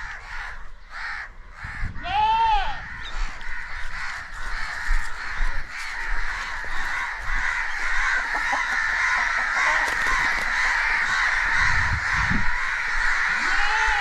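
Harsh bird calls, two loud crow-like caws that rise and fall in pitch, one about two seconds in and one near the end, over a steady hiss.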